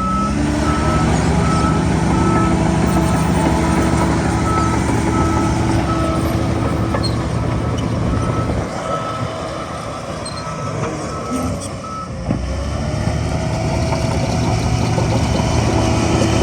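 Heavy diesel earthmoving machine running with its reversing alarm beeping steadily, about two beeps a second. The beeping stops about twelve seconds in, and the engine drops lower for a few seconds before picking up again.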